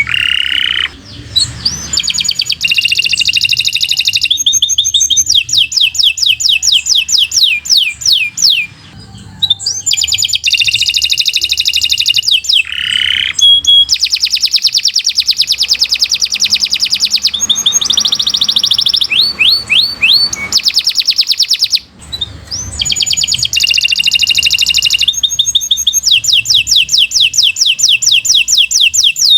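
Domestic canary singing a long, continuous song of fast trills. Each phrase is a rapid run of repeated high notes, with one brief break about two-thirds of the way through.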